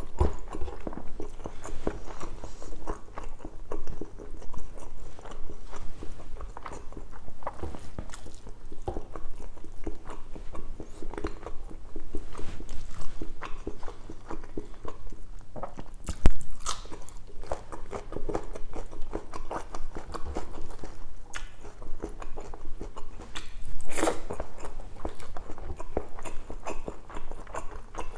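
Close-miked chewing and biting: a person eating spicy pork belly adobo in coconut milk, with many small wet mouth clicks. A single sharp click about sixteen seconds in.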